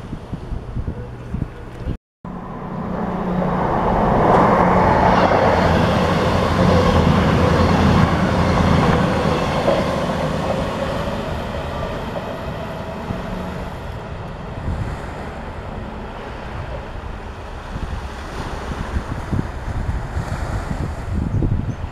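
CrossCountry Voyager diesel multiple unit passing on the line, its engine and wheel noise swelling up after about two seconds, loudest for several seconds, then slowly fading as it draws away. Gusty wind on the microphone.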